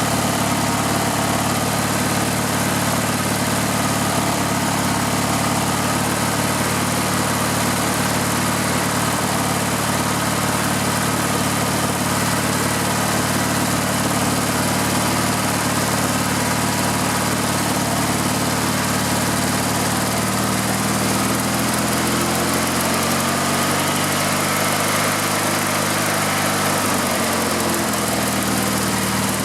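Riding lawn mower engine running steadily on gas fed to it directly, bypassing a clogged fuel tank and line; its speed rises and falls back again near the end. The engine runs fine this way, showing the no-start fault is a restriction in the fuel line or gas tank rather than the engine.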